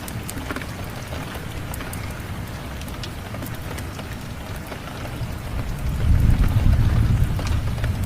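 Steady rain with scattered sharp crackles and pops from a wood fire. About five and a half seconds in, a low rumble of thunder builds and rolls, loudest a second or two later.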